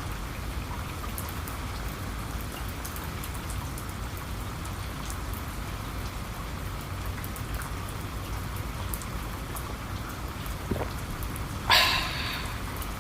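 Steady rain falling, with scattered drops ticking on a surface. Near the end comes a short, louder noise lasting about half a second.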